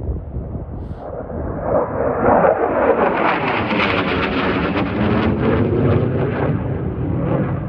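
Military fighter jet flying low overhead: a jet roar building from about a second in, with a sweeping, phasing whoosh as it passes, loudest around the middle and still loud at the end.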